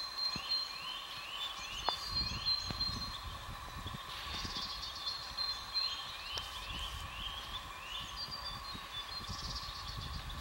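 Small songbirds singing: a phrase of quick, short rising notes topped by a high trill, repeated three times. Underneath runs a low, uneven rumble of wind noise.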